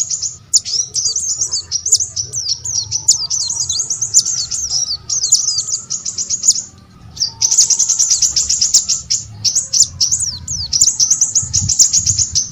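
Small songbird singing a fast, continuous twittering song of high chirps, with one short pause about seven seconds in.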